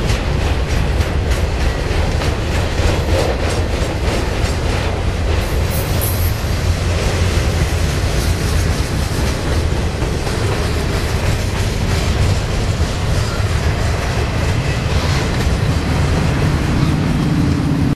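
Norfolk Southern freight train rolling past, its cars rumbling steadily with repeated clacking of wheels over the rail joints.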